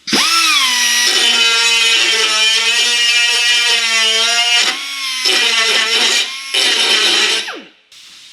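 An electric power tool's motor runs with a steady whine. Its pitch sags just after it starts, and it dips briefly twice before the tool stops near the end.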